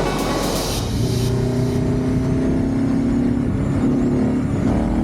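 Motorcycle engine pulling under acceleration, its pitch rising slowly, with a brief dip near the end before it climbs again.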